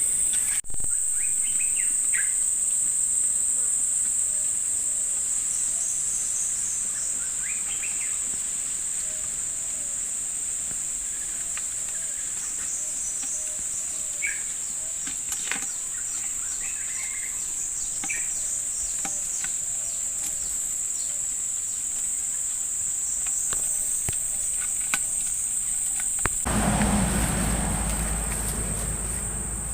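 A steady high-pitched drone of insects from the riverside vegetation, with a few short chirps scattered through it. Near the end a louder, low rushing noise lasts a few seconds.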